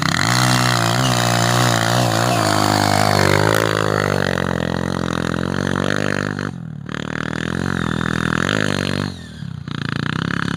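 Off-road trail motorcycle engine running close by, its pitch rising and falling with the throttle, with brief drops in level about six and a half and nine seconds in.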